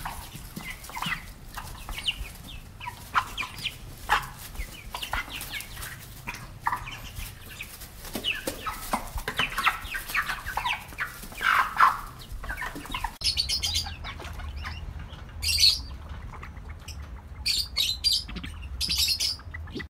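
A rooster clucking: short calls repeated at an irregular pace. About thirteen seconds in, the sound changes to a string of short, high, hissy bursts.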